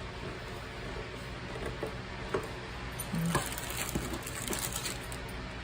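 Small handling noises of parts being worked by hand: a few light clicks, then a short spell of crackling and rustling about three seconds in, over a steady low hum.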